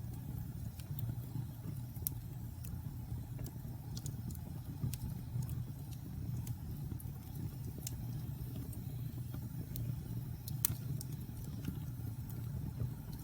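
Fire burning in a fireplace: a steady low rumble of flames with scattered small crackles and pops, and one sharper pop near the end.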